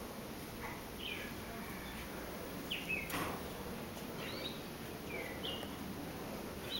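A bird singing a series of short chirps, each a quick swooping whistle, repeated at uneven intervals of about a second, with one sharp tap about three seconds in.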